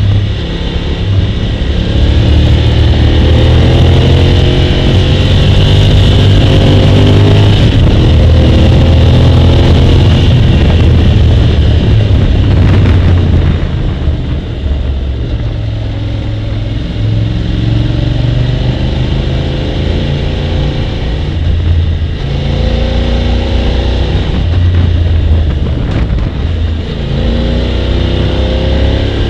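Motorcycle engine heard from the rider's seat, rising in pitch as it accelerates several times and falling back as the throttle closes. It is a little quieter from about halfway through.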